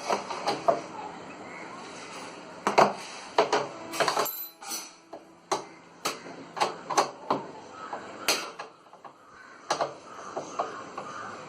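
Irregular metal clanks, taps and knocks of tools and parts being handled while a front-load washing machine is worked on, one or two ringing briefly about four seconds in.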